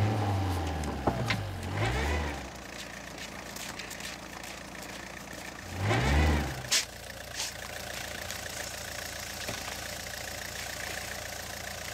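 Opel Corsa's petrol engine revving up and down as the car tries to drive out of deep snow while being pushed, falling back to a steady idle after about two and a half seconds. A second short rev comes about six seconds in, followed by a couple of sharp knocks.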